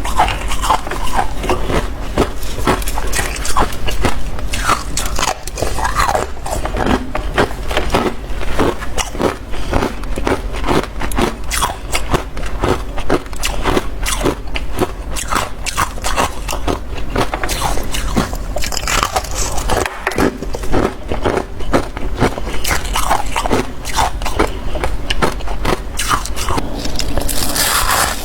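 Close-up chewing and crunching of soft, powdery freezer frost, a dense, continuous crackle of many small crunches.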